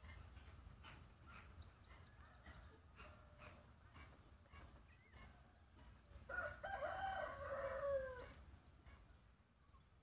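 Faint bird calls: a high chirp repeating about twice a second, and one longer crowing call of about two seconds, falling in pitch at its end, a little past the middle.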